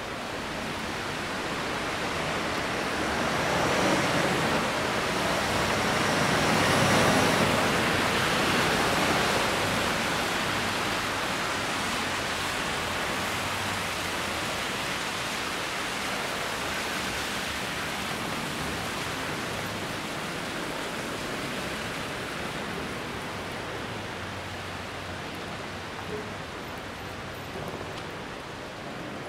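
Rain falling, a steady hiss that swells about three seconds in and eases off again after about ten.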